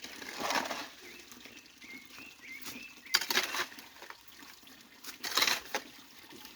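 Three brief, noisy swishing strokes of hand clearing work at a stream, about three seconds and two seconds apart, with faint bird chirps between them.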